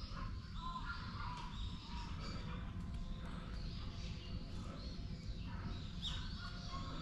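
Birds calling in the woods: scattered short chirps and whistles, over a steady low rumble.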